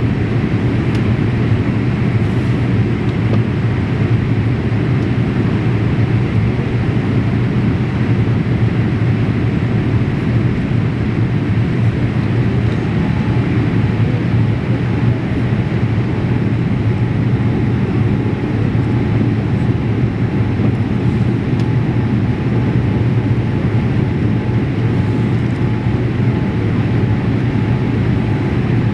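Steady cabin noise inside a Boeing 787-8 airliner in flight: an even rumble of airflow and engine noise. A faint steady tone joins about halfway through.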